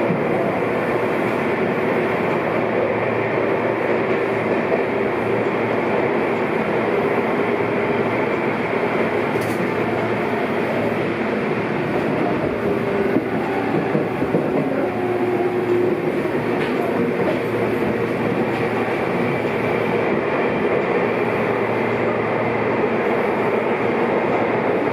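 Seibu 6000 series electric train running underground, heard from inside the car: a steady rumble of wheels on rail and traction-motor noise, with faint whining tones in the middle. The train's motor control runs on updated inverter software (new ROM).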